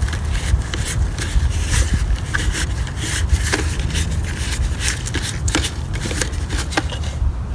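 Hard plastic clicking, rubbing and scraping as the clear dust canister of a Dyson DC24 vacuum is pried apart and handled, over a steady low rumble.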